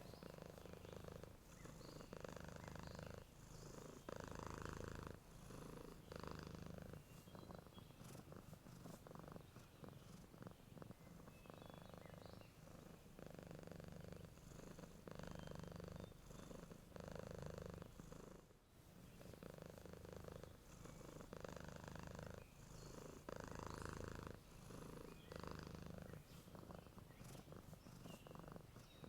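Domestic cat purring steadily, the purr swelling and easing about every two seconds with its breathing. Faint bird chirps come now and then in the background.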